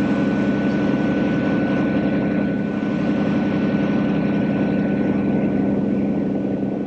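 Cirrus SR22T's turbocharged Continental six-cylinder engine and propeller running steadily at low taxi power, a constant drone heard from inside the cockpit, with a faint steady high whine over it.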